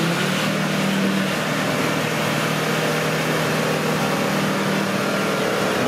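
Off-road 4x4's engine running steadily at low revs, its note dropping slightly about a second in.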